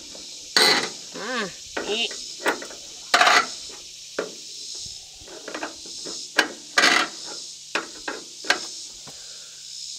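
Metal-on-metal clinks and taps of a wrench working the threaded tie-downs of a truck camper. The sharp clicks come irregularly, roughly one every second or so.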